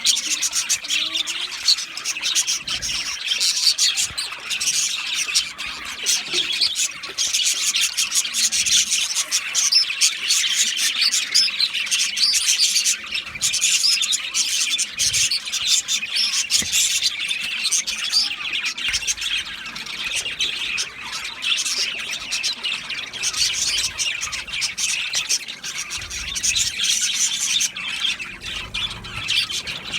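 Budgerigars chattering continuously, many quick chirps and squawks overlapping.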